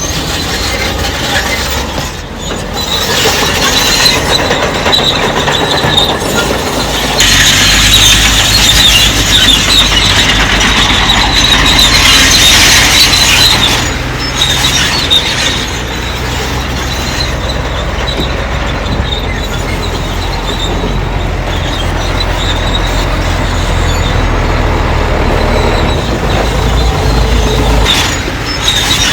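Crawler bulldozer working: its diesel engine runs steadily under load while the steel tracks squeal and grind, loudest about a quarter to halfway in.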